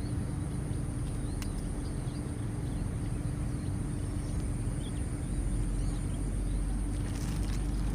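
Outdoor ambience: a steady low rumble that grows heavier about five seconds in, with a few faint bird chirps and a steady high hiss.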